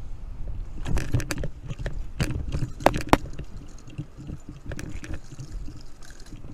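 Wind and road rumble from a fixed-gear bicycle ride, with sharp rattling knocks about one second in, a second cluster between two and three seconds in, and one more near five seconds.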